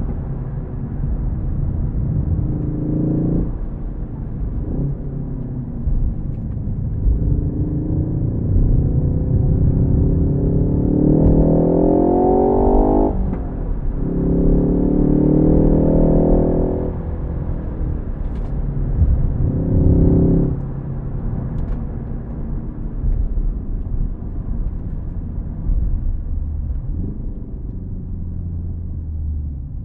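Ford Focus ST's turbocharged four-cylinder engine pulling hard through the gears of its six-speed manual: the pitch climbs, drops sharply at upshifts about three and thirteen seconds in, pulls again, then eases off after about twenty seconds to a lower, lighter run.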